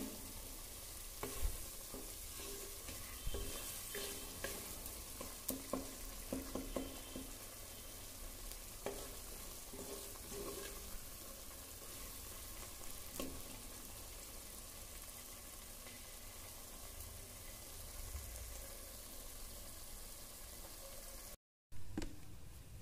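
Masala paste frying in oil in an earthenware pot, a soft steady sizzle, while a wooden spatula stirs it with scrapes and taps against the pot through roughly the first half. The paste is at the stage where the oil is separating from the masala.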